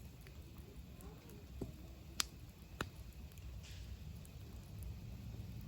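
Campfire wood crackling, with a few sharp separate pops, the loudest about two seconds in, over a low steady rumble.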